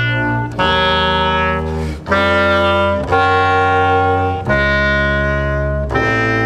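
Clarinet and double bass playing a chain of long, held low notes, each lasting one to one and a half seconds and giving way abruptly to the next, in an experimental contemporary piece.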